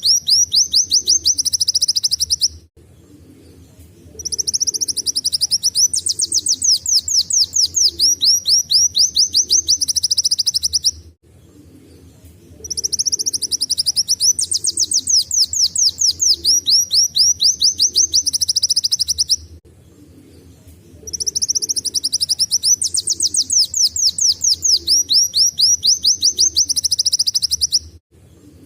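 Kolibri wulung (Van Hasselt's sunbird) singing fast, high canary-like trills. Three long song phrases of rapid repeated notes and rising sweeps are separated by pauses of about two seconds, and the same phrase repeats each time.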